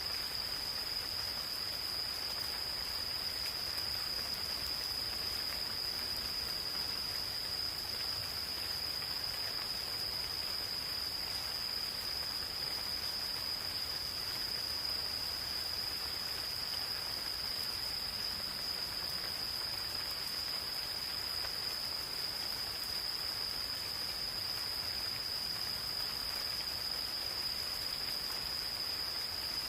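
Insects singing one unbroken, high, steady trill over the even hiss of gentle rain falling in a forest.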